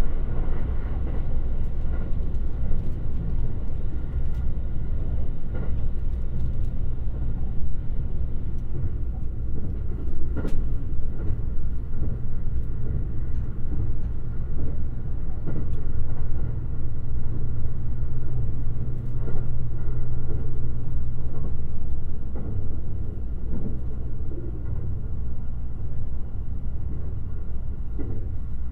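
Limited Express Shirasagi electric train running along the line, heard from on board: a steady low rumble of wheels on rail with a motor hum, and a few light clicks along the way.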